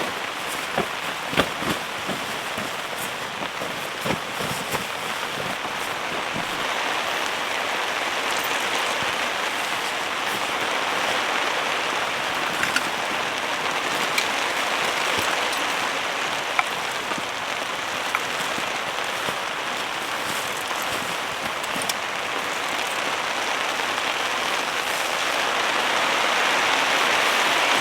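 Heavy rain falling steadily on a tent, with a few sharper taps in the first few seconds; the downpour grows louder near the end.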